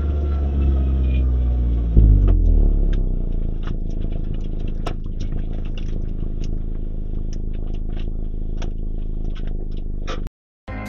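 Mazda MX-5 (ND) 990S's 1.5-litre four-cylinder engine heard from inside the cabin. The revs jump suddenly about two seconds in, then drop away and settle as the car slows, with scattered light clicks over the engine. The sound cuts off suddenly near the end.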